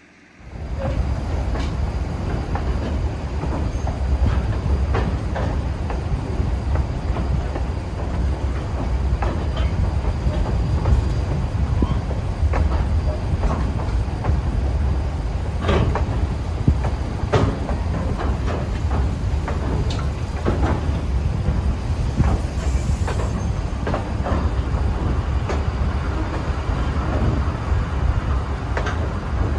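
Train rolling along the rails: a steady low rumble with irregular clicks and knocks from the wheels and cars. It cuts in abruptly just after the start.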